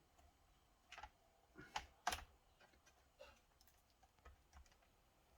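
A few scattered light clicks and taps of laptop plastic parts being handled and prised, with near silence between them; the loudest click is about two seconds in.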